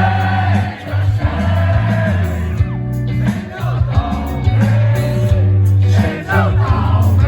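Live rock band playing at full volume, with heavy sustained bass notes and a singing voice over the top, as heard from within the audience.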